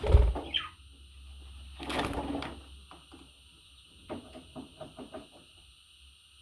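A loud knock, then a short falling chirp from a pet budgie, followed by rustling and a quick run of about six soft clicks.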